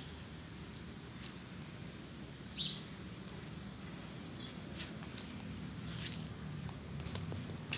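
A few short, high-pitched bird chirps, scattered, the clearest about two and a half seconds in, over a faint steady background.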